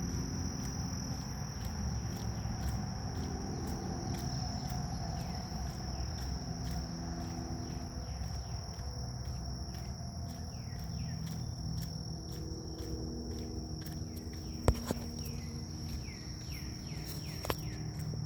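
Grass insects trilling with a steady high-pitched drone that pulses evenly. In the second half a bird gives a run of short falling chirps. There is a low rumble of wind throughout, and two sharp clicks come near the end.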